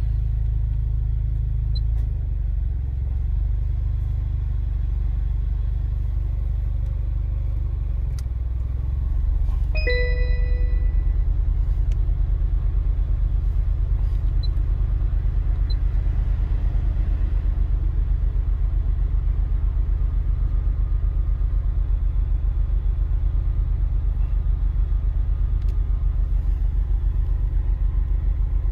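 A 2011 Nissan car running with a steady low rumble that changes to a fast, even pulsing about nine seconds in. A single short electronic beep sounds about ten seconds in.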